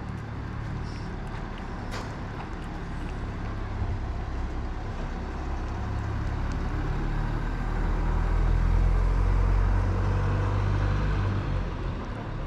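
Low rumble of a passing motor vehicle, swelling to its loudest past the middle and easing off toward the end.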